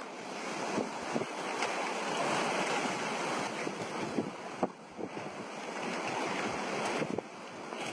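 Hurricane storm noise: strong wind buffeting the microphone over rushing water, a steady loud rush with a couple of abrupt shifts in level.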